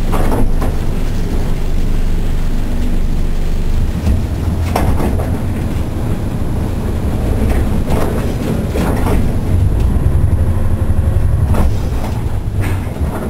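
Inside a Kishu Railway diesel railcar under way: the engine's steady low drone, which grows louder around ten seconds in, with the occasional click of wheels over rail joints.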